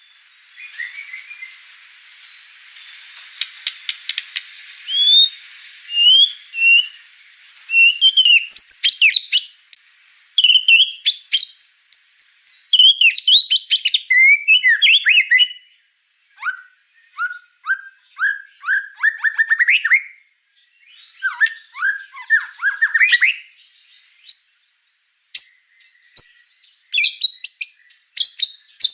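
White-rumped shama singing a long, varied song of clear whistles and sweeping notes, with a quick run of clicks about four seconds in and a series of short down-slurred notes in the middle, broken by brief pauses.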